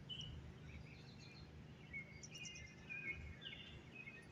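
Faint, scattered short chirps and calls from several yard birds, over a low steady hum.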